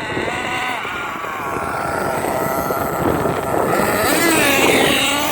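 Losi 8IGHT-T 1/8-scale RC truggy running, its motor whining up and down in pitch as the throttle is worked, a little louder about four seconds in.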